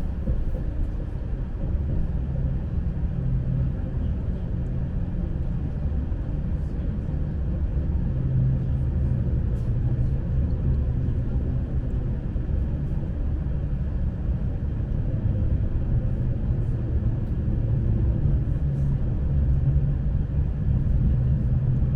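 Steady low rumble of a Lastochka electric train running along the line, heard from inside the passenger car, with a faint steady hum under it.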